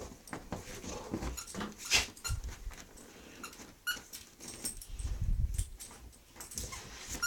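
Dog chewing and gnawing on a squeaky Angry Birds toy, with scattered small clicks and a few short squeaks from the toy about four seconds in.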